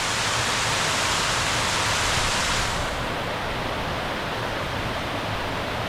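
Man-made waterfall on the uMguza river: water pouring steadily in a continuous rushing hiss, which turns duller about three seconds in.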